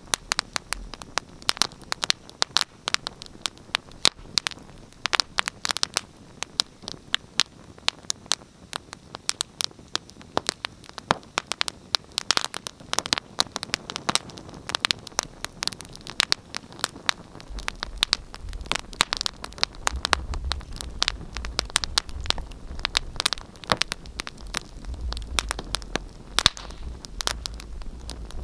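Wood fire in a fireplace crackling: a steady run of sharp pops and snaps over a soft hiss. A low rumble joins in the second half.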